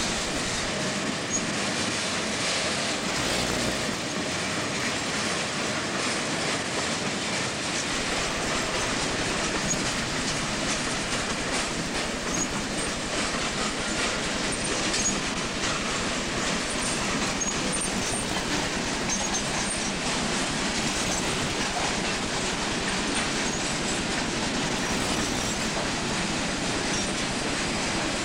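CSX freight train cars rolling past, a steady rumble and clatter of steel wheels on rail with scattered brief high-pitched wheel squeaks.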